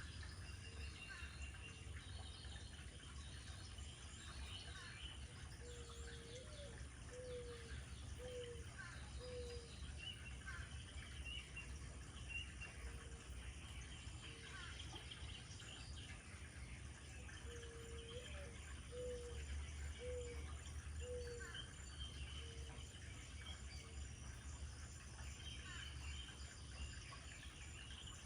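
Field recording of birds: many small birds chirping and singing, while a dove twice gives a low cooing phrase, a rising first coo followed by three or four shorter coos. A steady low rumble runs underneath.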